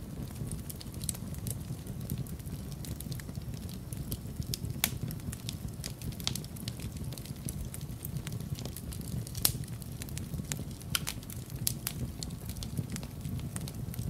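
Wood fire crackling in a fireplace: irregular sharp pops and snaps over a low, steady rumble, with a couple of louder pops about five and nine and a half seconds in.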